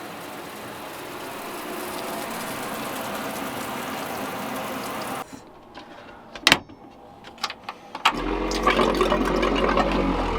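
A steady hiss for about five seconds, then a few sharp clicks, and about eight seconds in a small electric pump starts and runs with a steady hum and rushing water. It is the pump just repaired, with a pinhole-leaking valve patched with inner-tube rubber and silicone.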